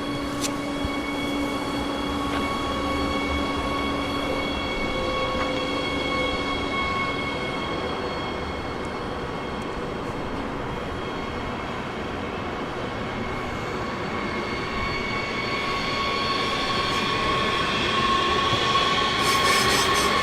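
Electric train moving on the rails with several steady whining tones from its drive over a rumble of wheels. It grows louder toward the end, where the whine rises in pitch and wheels click over rail joints.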